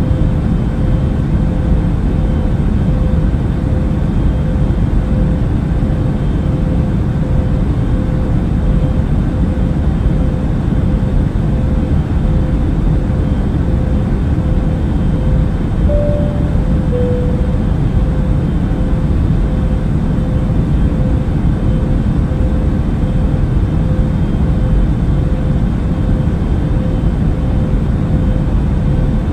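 Airliner cabin noise in flight: a steady low rumble of engines and rushing air with a faint steady hum. About 16 seconds in, a short two-note falling chime sounds.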